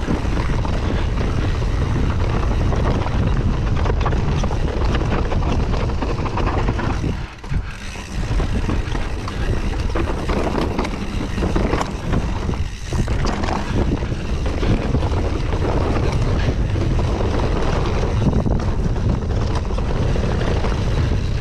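Wind rumbling on an action camera's microphone as a mountain bike rides down rough rock and dirt, with the tyres scrabbling and the bike rattling and knocking over the rocks. The noise eases off briefly twice.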